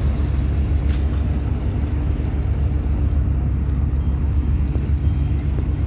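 Steady low mechanical rumble with a constant hum underneath.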